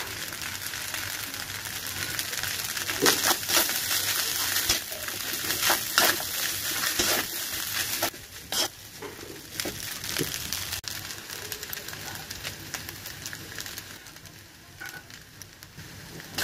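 Fried rice sizzling in a wok as a metal spoon stirs it, scraping against the pan several times. The sizzle dies down about halfway through.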